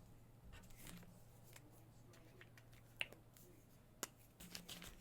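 Markers being handled over paper: faint scattered taps and clicks, with two sharper clicks about three and four seconds in, over a low steady hum.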